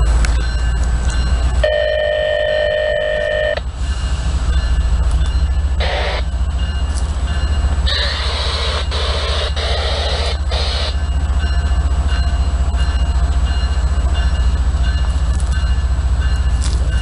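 Diesel locomotives of a freight train running close by, a steady, loud low rumble with a fast regular engine pulse. About two seconds in, a chord of steady tones sounds for about two seconds, like a short horn blast, and later there are two rushes of hissing noise, one brief and one lasting about three seconds.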